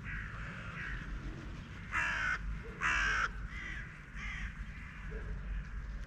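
Crows cawing at a feeding: two loud caws about two and three seconds in, with fainter calls before and after.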